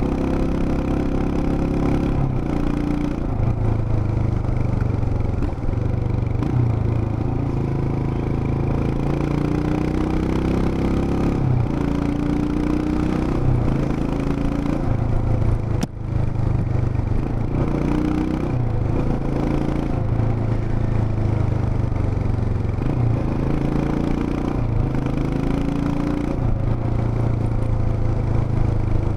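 Royal Enfield Himalayan BS6's 411 cc single-cylinder engine and exhaust running under way, the engine note climbing with throttle and dropping back at each gear change, again and again. The sound briefly cuts out about halfway through.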